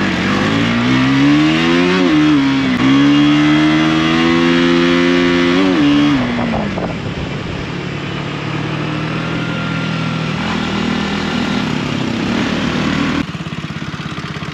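KTM Duke motorcycle engine heard from the rider's seat, revving up as it accelerates. The pitch climbs, dips briefly about three seconds in, holds high, then falls away about six seconds in as the throttle closes. After that it runs at a lower, steady pitch with a rush of wind until the level drops near the end.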